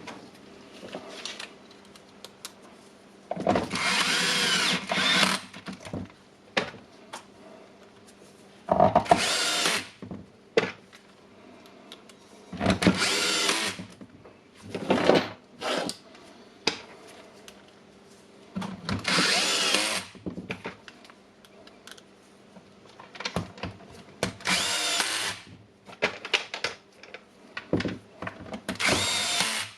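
An electric screwdriver driving screws into a power tool's plastic housing in six short runs of one to two seconds each, with small clicks of handling between them.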